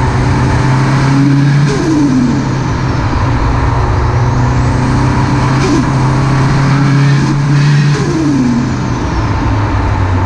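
Nissan SR20DET turbocharged inline-four with a Garrett GTX3071R Gen 2 turbo, held at revs and then let drop as the throttle closes, clearest about two seconds in and again near eight seconds. With no blow-off valve fitted, each throttle lift brings the turbo's compressor-surge flutter ('stututu').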